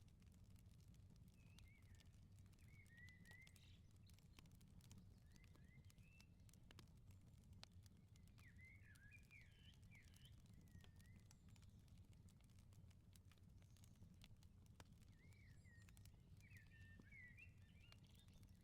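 Faint crackling of an outdoor wood fire, with scattered sharp pops over a steady low rumble. A small bird chirps in short twittering phrases several times.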